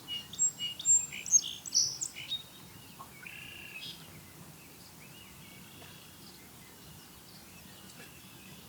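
Birds calling: a quick run of sharp, high chirps in the first two and a half seconds, then fainter scattered calls over a light outdoor background.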